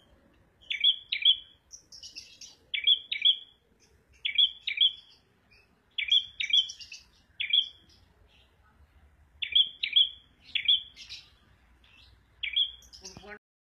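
A prenjak merah songbird calling: sharp, high chip notes, mostly in quick pairs, repeated every second or two. The recording cuts off abruptly near the end.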